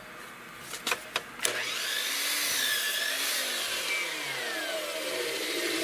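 A few clicks, then a 12-inch chop saw starts about a second and a half in and runs, its whine bending up and down in pitch as the re-sharpened 80-tooth DeWalt blade cuts through wood.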